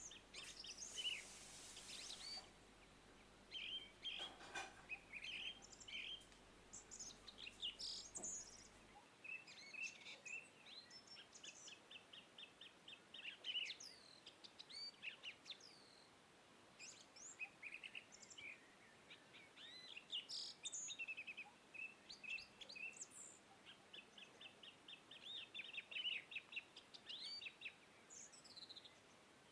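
Faint songbirds chirping and trilling: rapid runs of short notes mixed with quick high chirps, going on throughout. A short hiss comes about a second in, and a couple of faint knocks follow a few seconds later.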